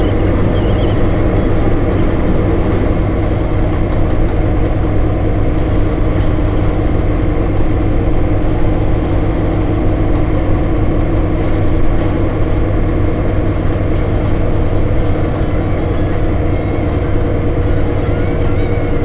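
HMMWV's diesel V8 engine running steadily, a low drone that holds an even level.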